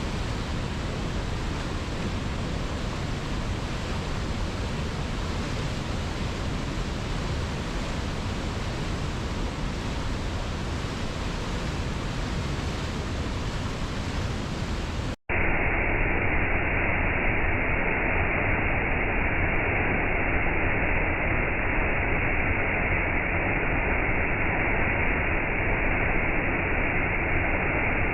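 Waterfall's steady rush of falling water. About halfway through it drops out for an instant, and a louder, lower-quality waterfall recording with the high end cut off takes over.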